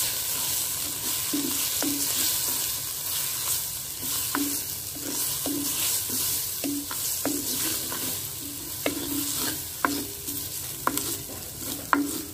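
Onions, tomatoes and spices sizzling in hot oil in a clay pot while being stirred with a wooden spoon, which knocks and scrapes against the pot many times, about once or twice a second.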